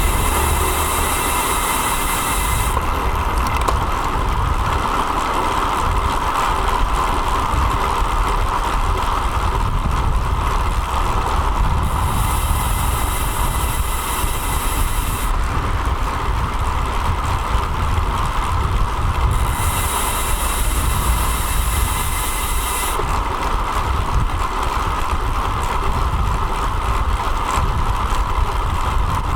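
Steady riding noise from a road bike picked up by a bike-mounted action camera: wind and tyre rumble with a constant hum. Three stretches of high hiss a few seconds each start and stop abruptly.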